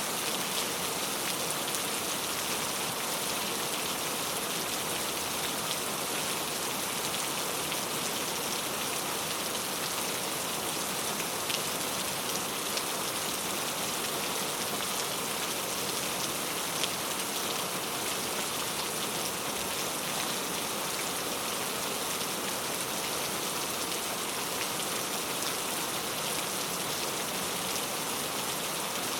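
Steady heavy rain falling, an even hiss of drops hitting surfaces with scattered faint individual drop ticks.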